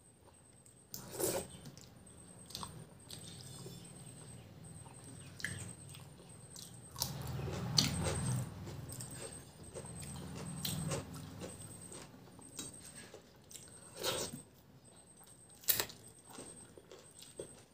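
Eating sounds of rice mixed with dal and fried vegetables, eaten by hand: chewing and mouth noises, loudest from about seven to eleven seconds in, with a few sharp clicks scattered through.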